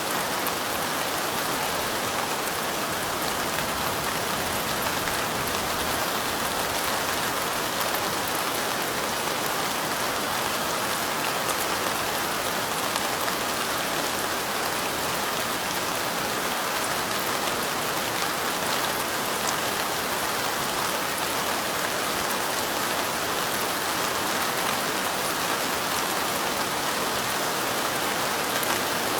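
Steady light rain: an even hiss of falling drops with faint scattered drop ticks.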